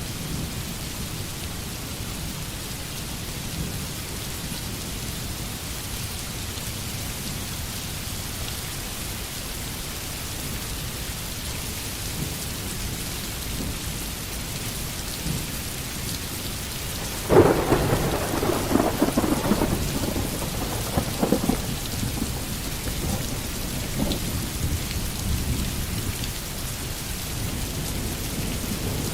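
Steady rainfall, with a sharp crack of thunder about two-thirds of the way in that rumbles on for several seconds.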